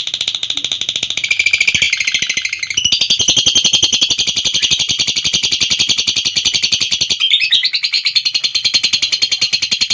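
Lovebird giving a long ngekek: a continuous, very fast chattering trill of shrill notes, with a momentary break about seven seconds in.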